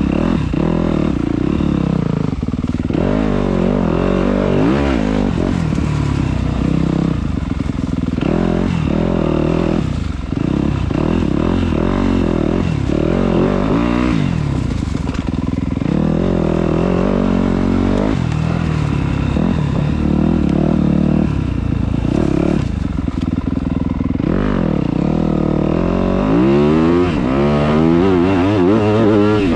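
Dirt bike engine running hard along a wooded trail, its pitch rising and falling every second or two as the throttle is opened and shut, with a louder run of revs near the end.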